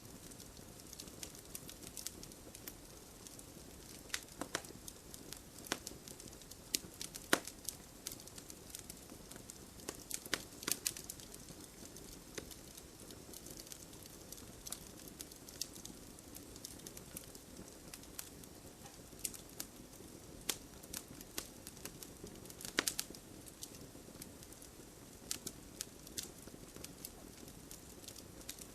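Campfire burning, a soft steady low rush of flames under irregular sharp crackles and pops from the wood, some of them louder snaps.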